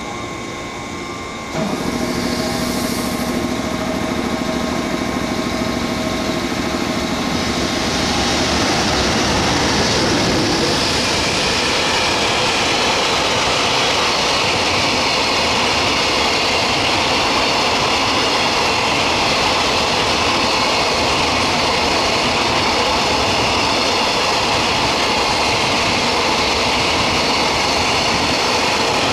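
A freight train passing close by: a steady electric hum for the first few seconds, then the continuous rolling noise of freight wagons on the rails.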